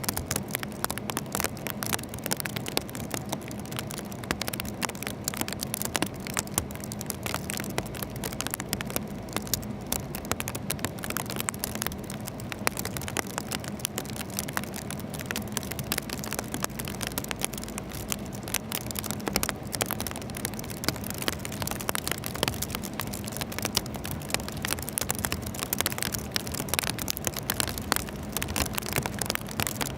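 Rain falling on a car's windshield: many small irregular ticks of drops over a steady low hum from the car.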